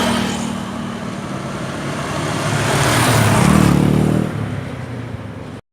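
Motorcycle engine running as the bike rides off, with heavy wind rush on the microphone; the engine picks up speed about three seconds in.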